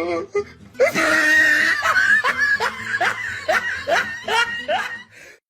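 A person laughing hard in a run of short, rising bursts, about two or three a second, that stops shortly before the end.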